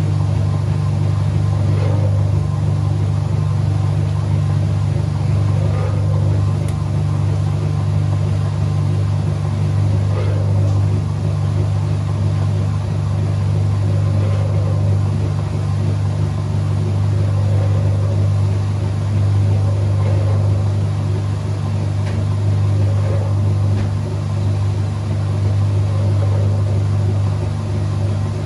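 Whirlpool 3RLSQ8033SWD top-loading washing machine running, its motor giving a steady low hum.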